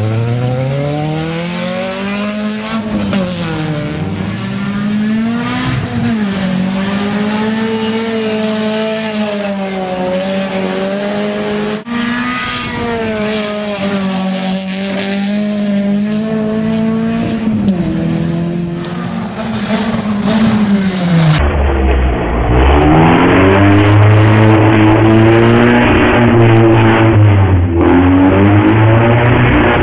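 Nissan Sunny 2.0 GTi rally car's four-cylinder engine at full throttle. Its pitch climbs and drops again and again as it shifts gears and lifts off. It is louder in the last third.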